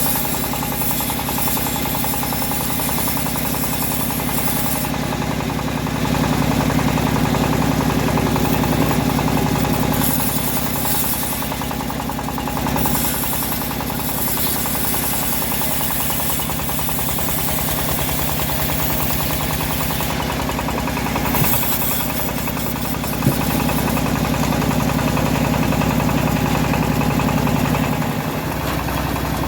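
Homemade bandsaw mill running steadily, with a low engine-like rumble, twice growing louder for a few seconds; a single sharp knock a little past the middle.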